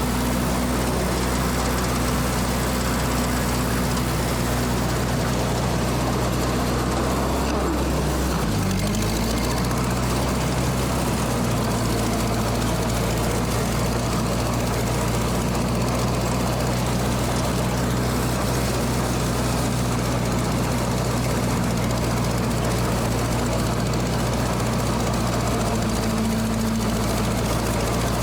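Ford 8N tractor's four-cylinder engine running steadily under load as the tractor cuts through dense vegetation in third gear. About eight seconds in the engine note dips briefly, then settles slightly higher.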